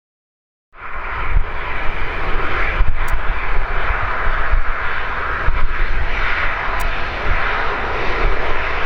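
Engines of a taxiing airliner running steadily: a loud, even rushing drone with a low rumble beneath, cutting in suddenly about a second in.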